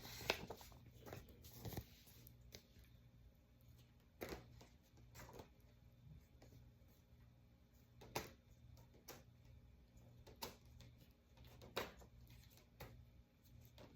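Near silence: room tone with a low steady hum and faint, scattered clicks and rustles, about one every second or two.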